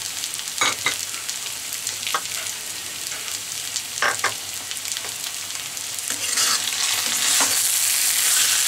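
Spiced boiled arbi (taro root) pieces frying in a kadai, sizzling steadily while they are stirred, with a few short scrapes against the pan. The sizzling grows louder about six seconds in.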